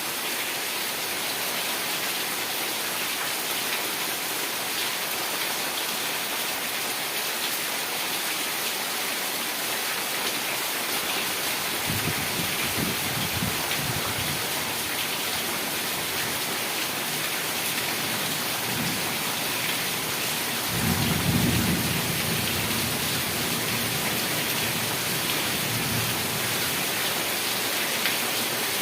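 Heavy rain falling in a steady hiss. Low rumbles of thunder come in twice, briefly about twelve seconds in and louder about twenty-one seconds in.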